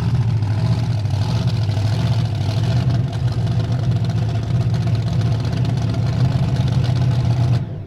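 Bigfoot 18 monster truck's engine running steadily, cutting off suddenly near the end.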